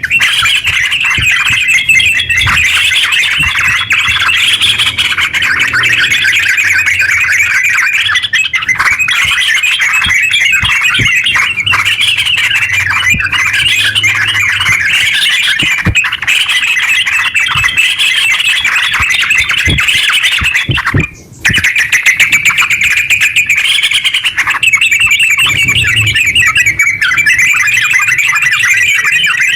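Yellow-vented bulbul (terucuk) singing a long, fast, unbroken chattering song, the rolling 'ngeropel' style, with one brief pause about two-thirds of the way through.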